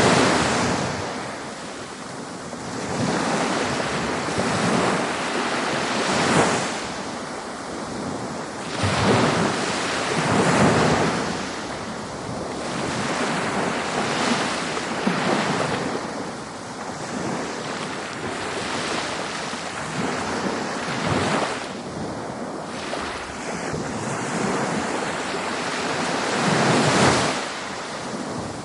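Ocean waves breaking on a beach, surging and washing in every two to four seconds over a constant hiss of surf.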